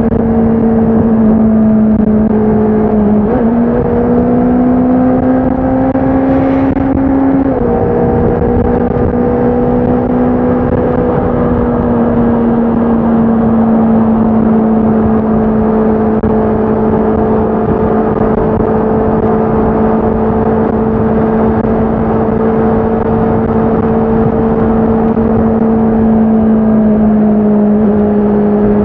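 Honda CBR650R's inline-four engine and exhaust running under way at a steady pitch. The note climbs for a few seconds, drops back about eight seconds in, then holds nearly level with a slight dip near the end.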